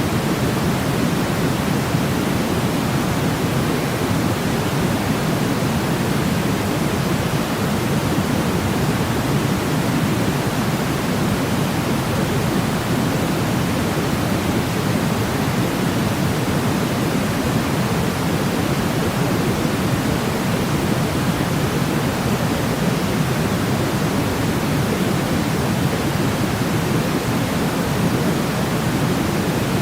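Steady white-noise sleep sound: an even, unchanging hiss with most of its weight low, deeper than pure white noise.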